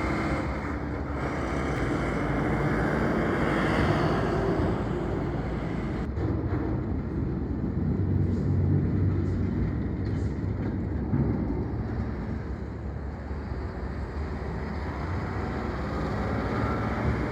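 Diesel engines of tractor-trailer units running steadily as the trucks drive off a roll-on/roll-off cargo ship.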